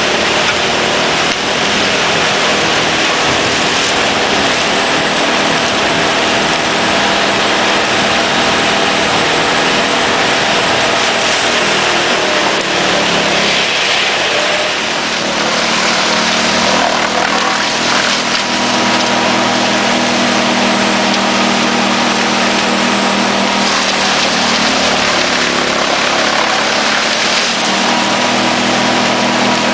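Erjo 9/93 wood chipper mounted on a forestry machine, chipping wood with its engine running hard: a loud, steady roar of machinery and chipping. A faint steady whine joins in about halfway through.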